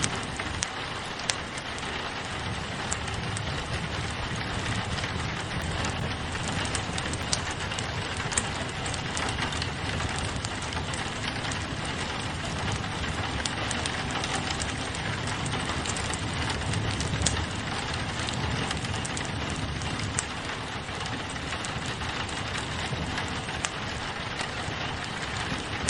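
Steady rain pattering on a window pane, mixed with a crackling wood fire: an even hiss with scattered sharp single clicks and pops.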